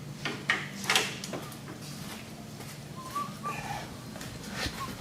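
A few light metallic clicks and taps of hand tools on steering and suspension parts, with faint short chirps about three seconds in.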